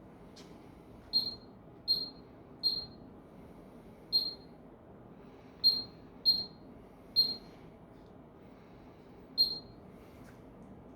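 Eight short, high electronic beeps from a Miele Professional washing machine's control panel, spaced unevenly across the stretch like key-press confirmation beeps, over a faint steady hum.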